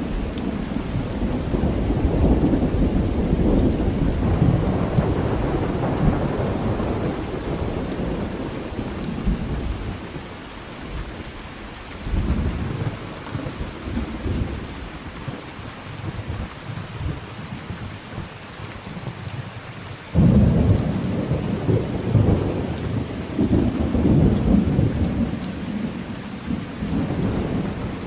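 Thunderstorm with steady rain and rolling thunder. A long rumble dies away about ten seconds in, and a sudden crack about twenty seconds in sets off another long rumble.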